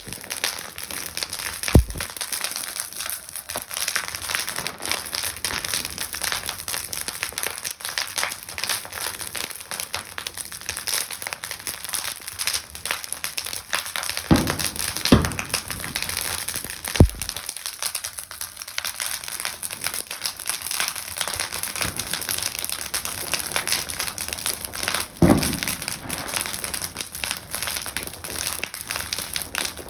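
Bonfire burning with a steady, dense crackle, broken by five sharper, louder bangs or pops.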